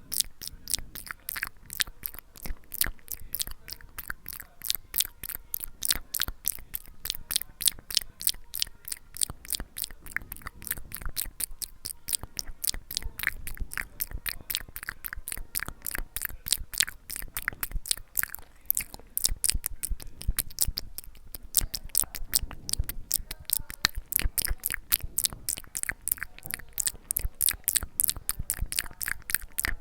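ASMR mouth sounds made close to the microphone: a continuous run of wet lip and tongue clicks and smacks, about four a second.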